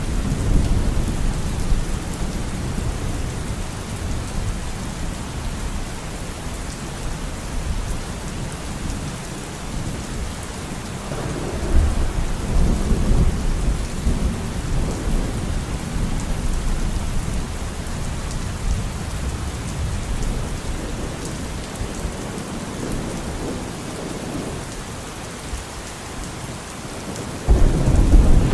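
Steady rain in a thunderstorm, with thunder rumbling at the start and again a little under halfway through. Near the end a sudden, louder peal of thunder breaks in.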